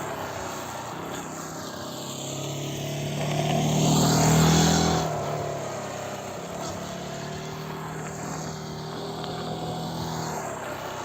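Motorcycle engine running as it rides around the practice area, growing louder to a peak about four seconds in, as if passing close, then dropping back and running on steadily.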